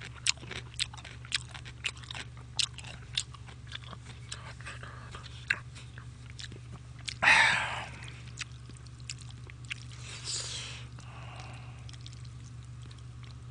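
A person chewing food close to a microphone: wet mouth clicks and smacks, with a loud breathy burst about seven seconds in and a softer one about ten seconds in.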